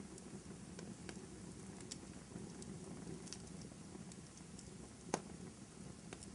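Fireplace fire crackling: a steady low rumble of burning with scattered small pops and one sharper, louder crack about five seconds in.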